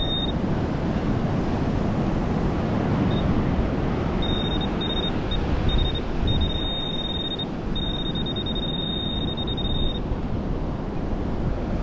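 Steady rushing storm wind and surf noise, with a metal detector's high-pitched tone beeping on and off, then held longer, from about four seconds in to about ten seconds as it homes in on a buried target.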